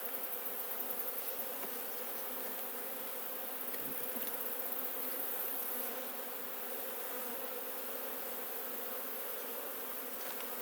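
Honeybees humming steadily around an open hive, many bees in the air during a frame inspection.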